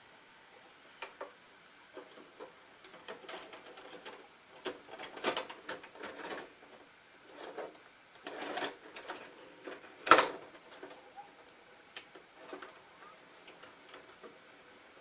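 Irregular small clicks and rustling handling noises, as of plastic parts being worked by hand, with one sharp loud click about ten seconds in.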